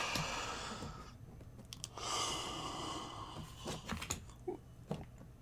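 A person breathing, two long breaths about a second apart, followed by a few small clicks.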